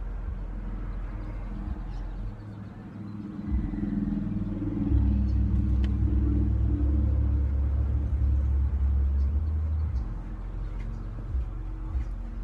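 Low motor-vehicle engine rumble, heard from inside a car, swelling for several seconds in the middle and then easing off.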